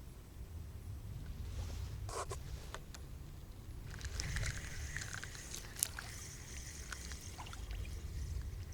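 Light splashing and scraping at the water's edge with a few sharp clicks, busiest from about four to seven seconds in, over a steady low rumble.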